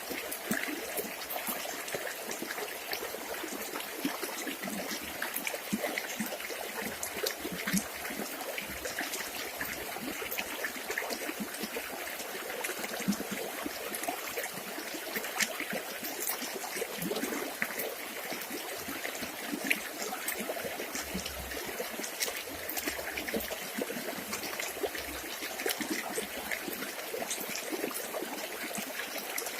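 A village river flowing and trickling steadily, with many small splashes.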